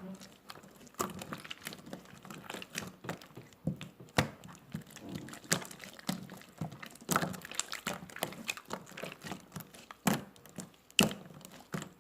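Slime being squished and kneaded by hand, with irregular sharp clicks and pops, the loudest about four seconds in and again near the end.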